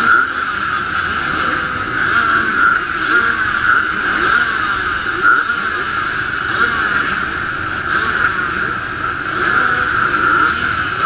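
A row of motocross bikes running at the start gate, their engines idling and blipped so the mixed engine note keeps rising and falling.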